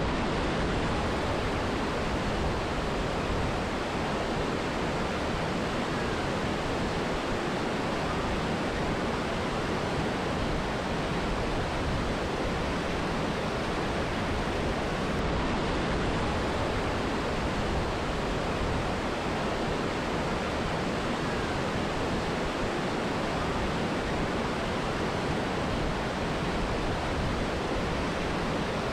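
Mountain river and waterfall rushing: a steady, even roar of falling and running water with no changes.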